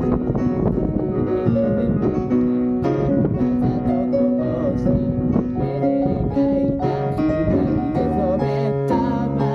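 Solo live performance of a pop song, an instrument played with a voice singing held notes, over strong wind rumbling on the microphone.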